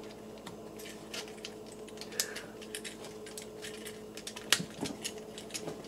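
Scattered small plastic clicks and taps as the parts of a plastic Transformers action figure are moved and snapped into place during transformation, with a sharper click about two seconds in and another about four and a half seconds in.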